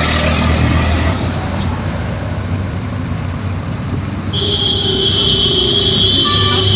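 Road traffic with a steady low engine rumble. From about four seconds in, a steady high-pitched tone sounds for about two and a half seconds.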